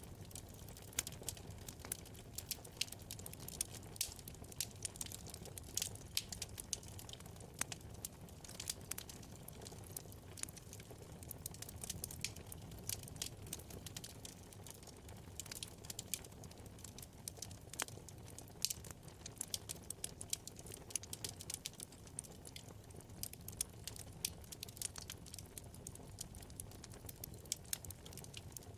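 Wood fire burning in a fireplace: constant irregular crackling, many small sharp pops and snaps over a low steady rumble of the flames.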